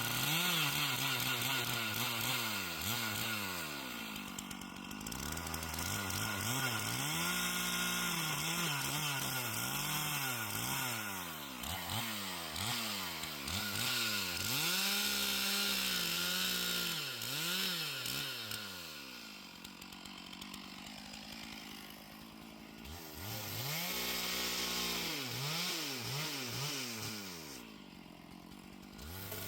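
Chainsaw engine revving up and easing off again and again while bucking a fallen tree into rounds, with a couple of quieter spells near idle.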